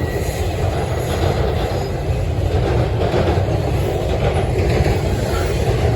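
Norfolk Southern train rolling past, a steady, loud rumble of wheels on the rails.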